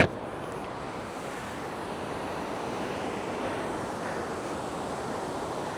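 Steady rush of falling water from a waterfall, with a sharp click right at the start.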